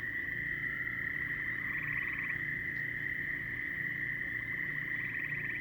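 A chorus of frogs calling: a steady, high, unbroken drone with overlapping pulsed trills that swell up over it about two seconds in and again near the end, and a lower pulsing layer underneath.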